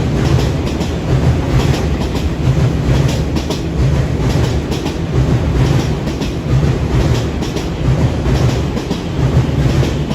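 Electric commuter train running on the rails: a steady low rumble with wheels clacking over the rail joints.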